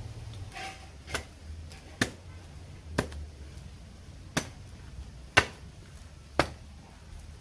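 Six sharp chopping strikes on the husk of a mature coconut, about one a second, as the husk is hacked away to peel it.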